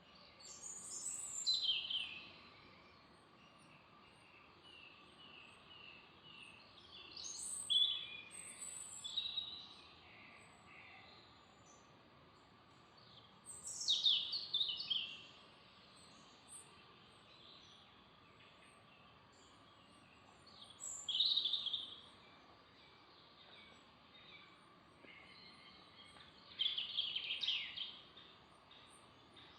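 A songbird singing short bursts of high, quick descending notes, five phrases about every six seconds, over a faint steady background hiss.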